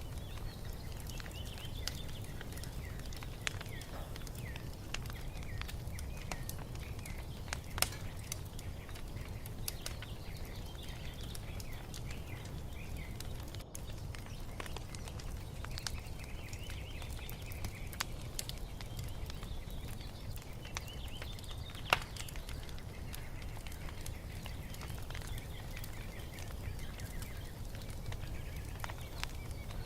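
Wood fire crackling in a fireplace: a steady low rumble with scattered sharp pops, the loudest about eight seconds in and again about twenty-two seconds in. Small songbirds chirp and sing on and off over it.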